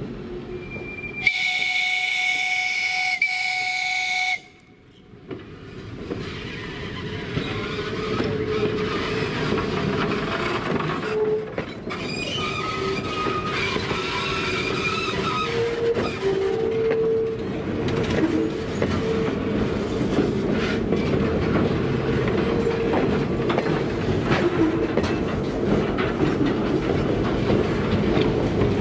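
A train whistle sounds one steady chord-like blast of about three seconds. Then wooden passenger cars roll past close by, a steady rumble with clickety-clack from the wheels and now and then a squeal of wheels on the curving track.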